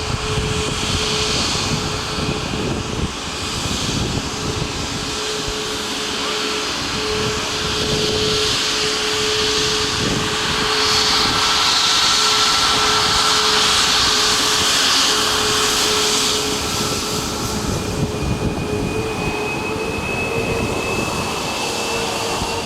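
Jet airliner engines running: a steady hum over a broad hiss that swells in the middle, with a whine rising in pitch near the end.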